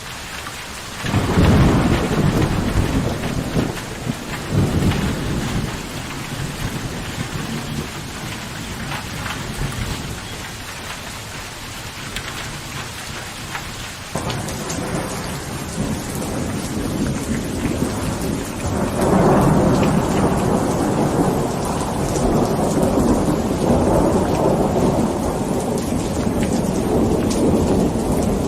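Steady heavy rain in a thunderstorm: a sudden thunderclap about a second in and another a few seconds later, then a long rolling rumble of thunder over the last third.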